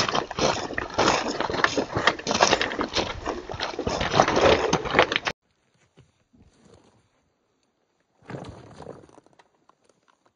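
Footsteps crunching and scraping over rough, dry desert ground, loud and close, cutting off abruptly about five seconds in; afterwards only a few faint steps and rustles.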